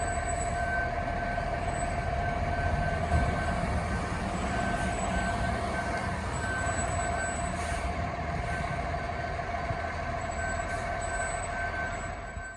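A large vehicle running steadily, with a low rumble under a constant whine and a higher tone that drops in and out; it cuts off suddenly at the end.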